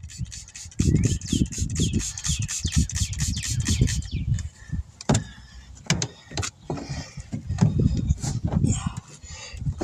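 Rubber bead of a new tire squeaking and squealing against the wheel rim as it is levered on by hand with a tire tool: quick, repeated rising squeaks for about the first four seconds, then scattered clicks and knocks.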